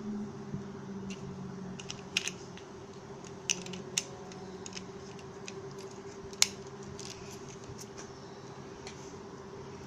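Scattered small sharp clicks and taps, a few in quick pairs and the loudest about six seconds in, over a steady low electrical hum.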